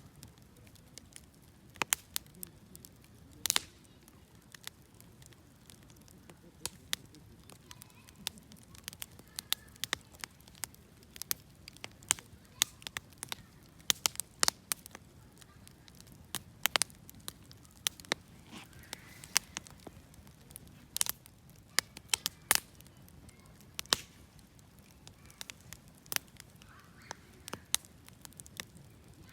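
Wood fire crackling, with irregular sharp pops and snaps over a low, soft rumble of burning.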